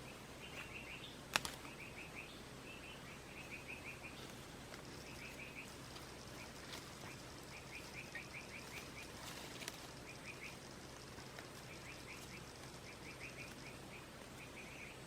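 Short, rapid chattering trills from a forest bird or insect, repeating every second or so, with one sharp click about a second and a half in.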